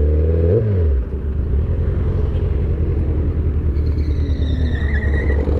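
Kawasaki ZX-10R inline-four sportbike engine coming off the throttle, with a brief rise in revs about half a second in, then settling to a steady idle as the bike slows for a stop.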